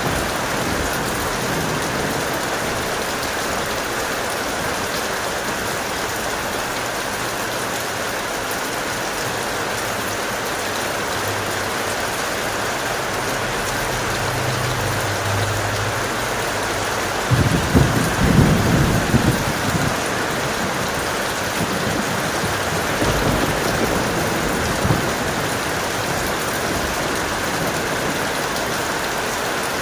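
Heavy, steady rain with thunder: a low rumble in the first half, a louder peal of thunder a little past halfway, and a smaller rumble a few seconds after it.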